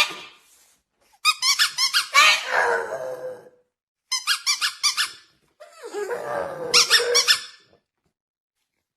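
Three runs of quick, repeated high squeaks, each lasting a second or two with short silences between.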